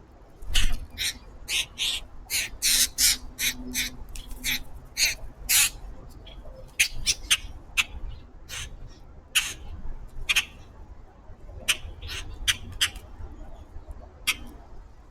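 A group of birds giving short, harsh calls, many in quick succession at first, then more spaced out.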